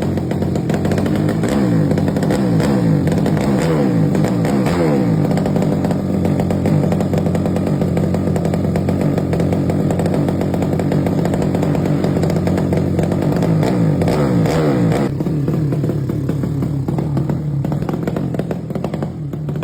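Racing motorcycle engine revved repeatedly, its pitch dropping back after each blip of the throttle, then running steadily and a little quieter near the end.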